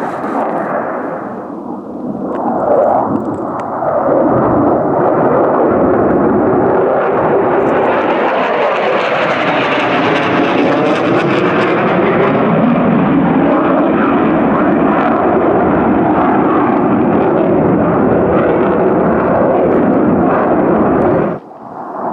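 F/A-18 fighter jet passing low, its jet engines giving a loud rushing roar. The noise swells about four seconds in, turns brighter and hissier near the middle, stays loud, and cuts off suddenly near the end.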